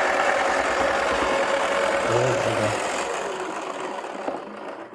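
Small electric motor of a toy washing machine spinning its drum with a steady whir and hum, fading over the last couple of seconds and stopping suddenly at the end as the spin finishes.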